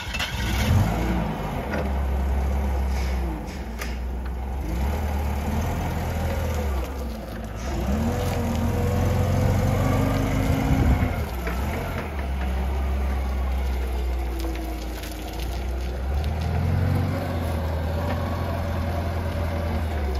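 Datsun/Nissan pickup truck engine idling, revved up a few times, its pitch rising and falling back.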